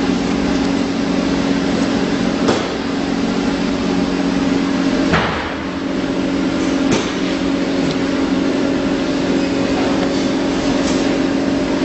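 PVC tarpaulin welding machine running with a steady hum, with three sharp knocks about two and a half, five and seven seconds in.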